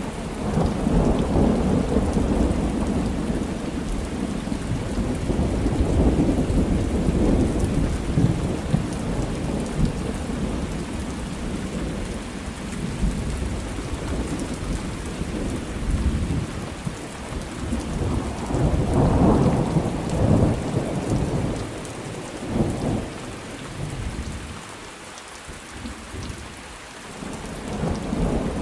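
Thunder rolling over steady rain. A long, deep rumble breaks in right at the start and lasts about ten seconds. Another swell of rumbling comes about two-thirds of the way through, dies down, and the rumble builds again near the end.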